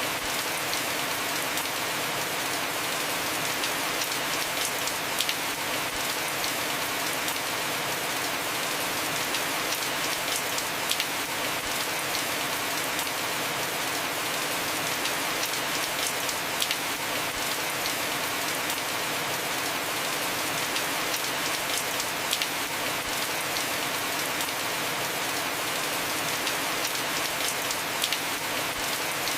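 Heavy rain falling steadily on a roof, an even hiss with scattered sharper drop ticks throughout.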